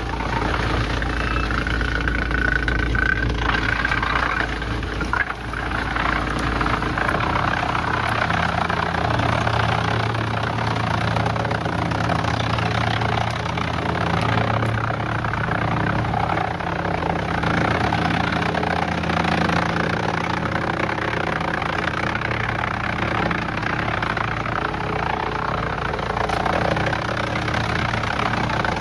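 Heavy machinery engine running steadily with a continuous mechanical rumble and hum, with a brief dip in level about five seconds in.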